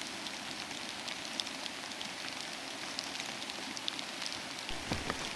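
Steady rain falling, an even hiss with scattered ticks of drops. A few low thumps come in near the end.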